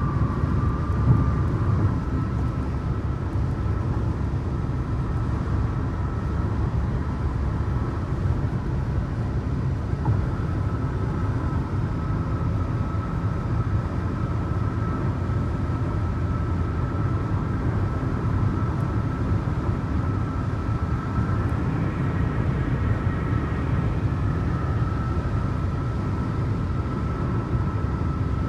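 Vehicle cruising at highway speed: a steady low rumble of road and engine noise with a faint steady whine.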